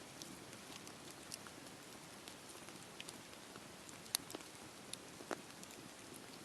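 Wood fire crackling in a fireplace: a faint steady hiss with scattered sharp pops, the strongest a little after four and five seconds in.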